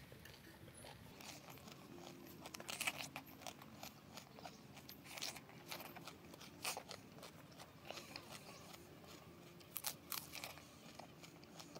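Close-up mouth sounds of a person chewing food, with crisp crunching bites at irregular intervals. The loudest crunches come about a quarter of the way in and again near the end.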